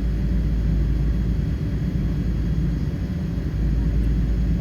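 Steady low rumble of a Boeing 777-300's engines and airflow heard inside the passenger cabin, even and unbroken.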